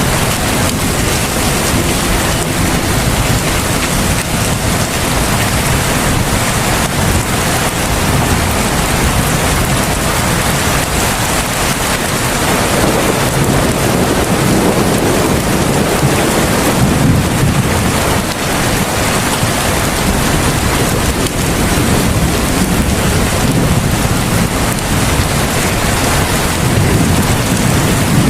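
Heavy rain falling steadily in a dense, even hiss, with a low rumble swelling about halfway through.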